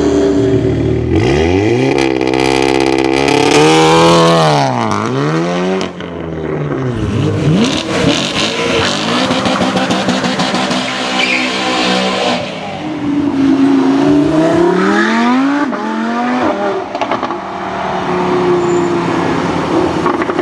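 High-performance car engine revving and accelerating hard, its pitch climbing and falling several times. The sound changes abruptly about six seconds in, and there are more rising revs after about thirteen seconds.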